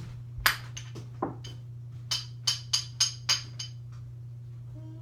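A hard object struck about ten times in an irregular run, each tap sharp with a brief high ringing, over a steady low hum.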